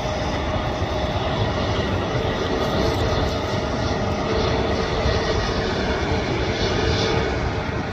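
Jet airliner's engines running steadily, an even, loud noise with a faint steady whine in it.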